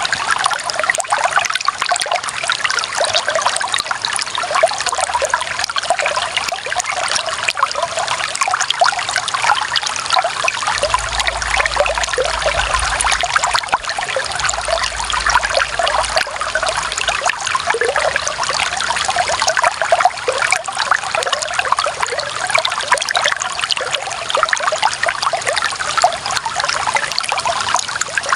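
Running water trickling steadily, a dense, even patter of many small splashes.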